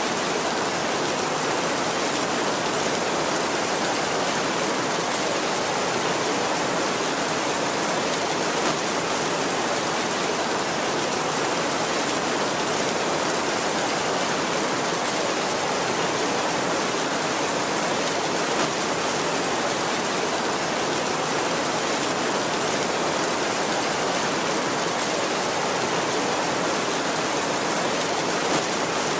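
Heavy rain falling steadily on a tin roof: an even, unbroken hiss of many drops, with an occasional slightly louder drop.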